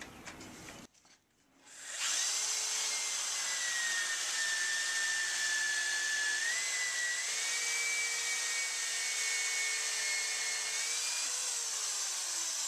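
Electric drill running a hole saw through plywood, cutting a hole from the second side through the same pilot hole. A steady whine that comes in about two seconds in, dips and rises a little in pitch under load, and winds down near the end.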